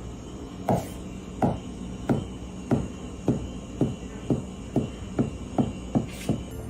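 A series of about eleven dull knocks, evenly spaced and getting slightly quicker toward the end, over a faint steady hum.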